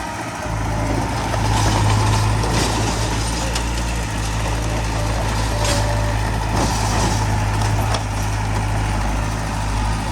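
Heavy diesel machinery running steadily with a deep engine hum, and a few sharp knocks and clatters scattered over it.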